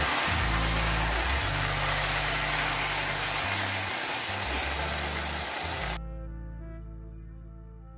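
Chicken masala sizzling as it fries and is stirred in a stainless steel pan, over background music with a moving bass line. The sizzle cuts off suddenly about six seconds in, leaving the music alone.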